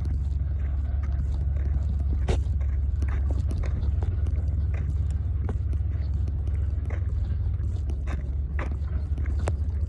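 Bulldozer's diesel engine running steadily with a deep drone, with scattered sharp clanks and knocks over it.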